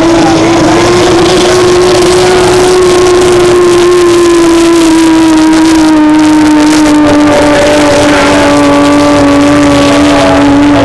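Racing powerboat's engine running at speed with a high, steady drone. Its pitch rises slightly, then sinks slowly through the second half.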